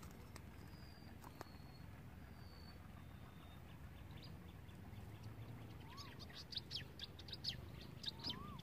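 Wild birds calling, faint: a few thin high whistles in the first few seconds, then a quick run of sharp chirps in the second half, with a short call that rises and falls twice.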